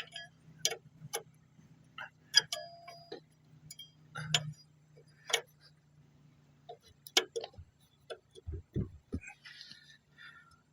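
Irregular metallic clicks and clinks of hand tools and parts being handled during strut work, about once or twice a second, over a steady low hum that stops about two-thirds of the way through.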